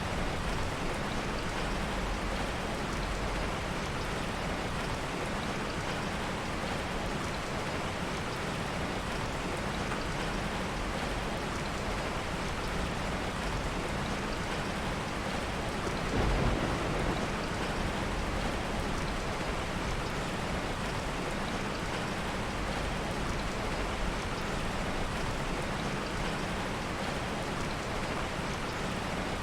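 Steady heavy rain, with a soft low roll of thunder a little past halfway through.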